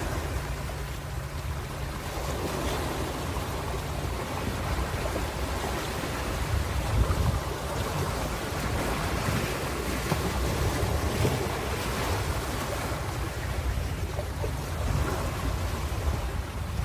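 Ocean surf: a continuous wash of waves with a deep low rumble, swelling slightly about seven seconds in.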